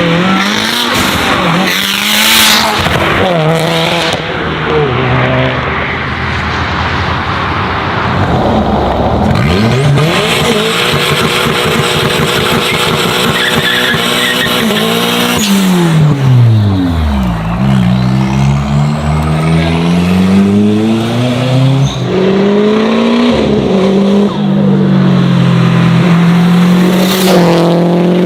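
Several high-performance sports car engines, on loud aftermarket exhausts, accelerating hard. The pitch climbs with the revs and drops back at each gear change, and about 16 s in one car's note falls sharply as it passes.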